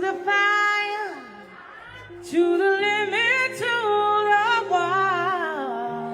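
Background song: a female voice singing long, bending phrases over held accompaniment notes.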